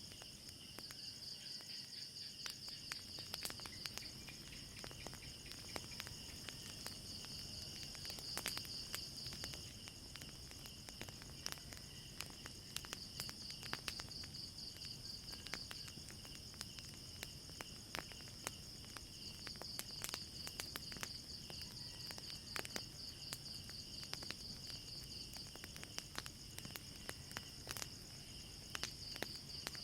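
Crickets chirping in a steady high trill that swells and fades every few seconds, over frequent sharp crackles from a burning wood fire.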